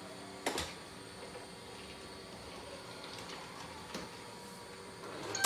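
Robot vacuum cleaner running with a steady mechanical hum, broken by a few sharp knocks, one about half a second in and another near the end.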